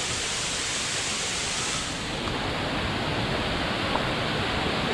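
Waterfall rushing: a steady, even noise of falling water. The brightest part of the hiss thins slightly about two seconds in.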